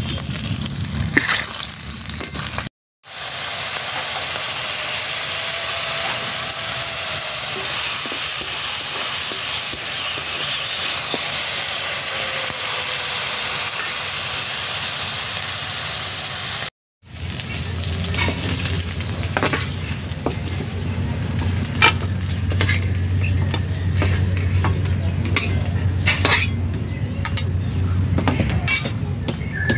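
Food frying in hot oil in a kadai, a steady sizzle, broken twice by brief gaps. In the later part, frequent sharp clicks of a spoon or spatula against the pan as the food is stirred.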